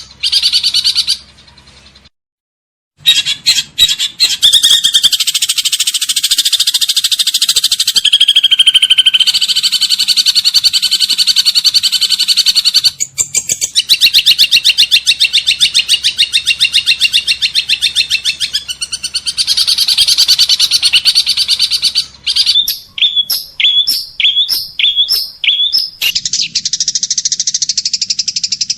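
Small songbirds singing in fast, continuous chattering trills. There is a brief gap about two seconds in, and near the end a run of about seven sharp chirps, roughly two a second, gives way to a steady buzzy trill.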